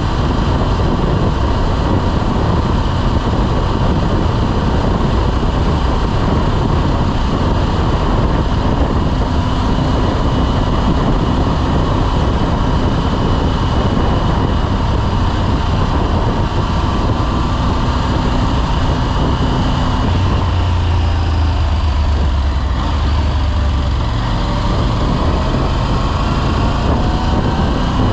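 A motorcycle riding along: the engine runs under heavy wind noise on the microphone, and its low note changes about twenty seconds in.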